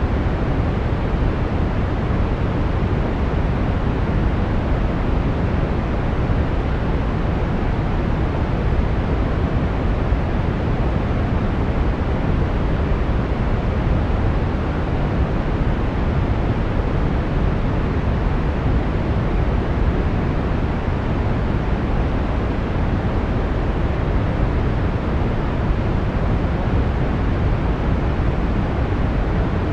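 Steady brown noise: an even, unchanging rumbling hiss, strongest in the low end and falling off toward the highs.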